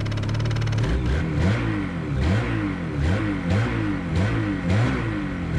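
2019 Ski-Doo MXZ Blizzard's 600 R E-TEC two-stroke twin engine being blipped on the throttle, its pitch rising and falling again and again in quick short revs, about one to two a second.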